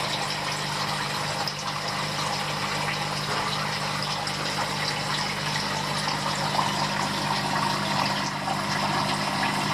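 Steady rush of running water under a constant low mechanical hum, as from a water pump.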